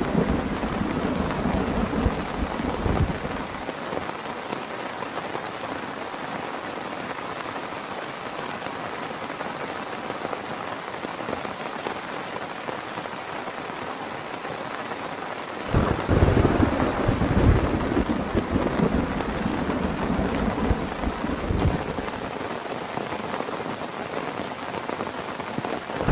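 Heavy rain falling steadily with thunder: a low rumble fades in the first few seconds, and another starts suddenly about two-thirds of the way through and dies away over several seconds.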